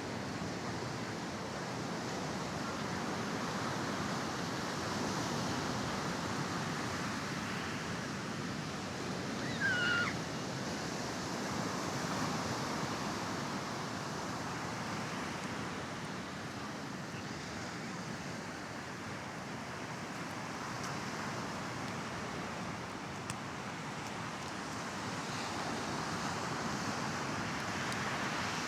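Mediterranean surf washing onto a sandy beach: a steady rush that swells and eases every few seconds. A short, high-pitched call stands out briefly about ten seconds in.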